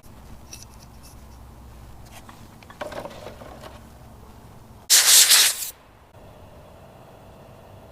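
Light metal clinks and handling noises from work on a car engine's timing chain, with a short loud hiss lasting just under a second about five seconds in.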